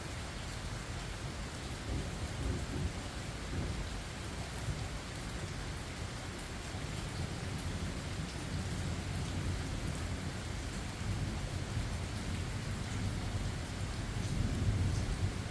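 Steady rain falling with rolling thunder rumbling in low, swelling a few times and loudest near the end.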